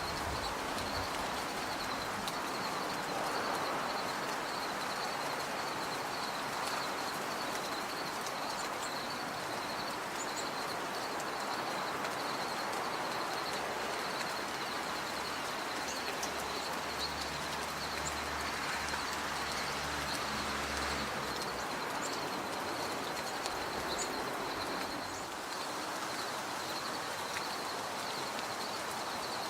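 Outdoor bird ambience: a few brief, very high chip notes scattered through, over a steady background hiss and an even, pulsing high-pitched trill. A low rumble runs for several seconds in the middle.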